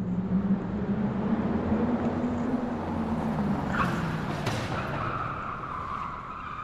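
Slot cars' small electric motors whirring as they run around the track: a steady low hum for the first few seconds, then a higher whine from about five seconds in.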